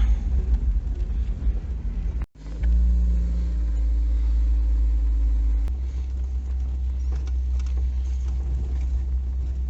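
Steady low rumble of a car moving slowly, which breaks off for a moment about two seconds in.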